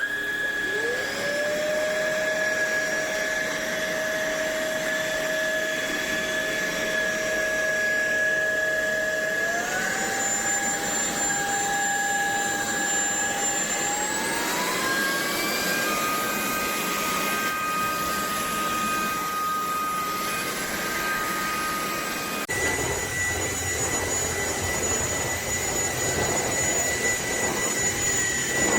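Cordless stick vacuum motor spinning up to a steady high whine, then stepping up in pitch twice, about ten and fourteen seconds in. About two-thirds of the way through it cuts abruptly to another vacuum running at a steady whine in a different pitch.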